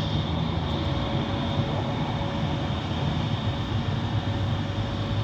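Airbus A321neo's jet engines running steadily: a continuous low rumble with a steady high whine.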